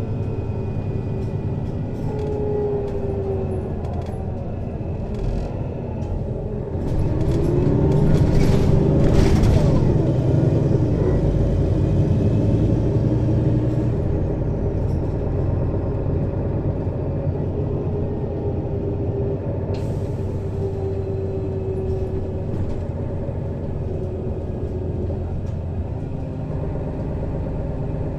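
Mercedes-Benz Citaro city bus's diesel engine, heard from above the engine compartment, running steadily. About seven seconds in it grows louder under load for a few seconds, then settles back to a steady run.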